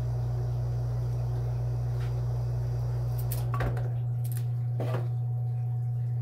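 A steady low hum throughout, with a few short clicks and knocks of things being handled about halfway through.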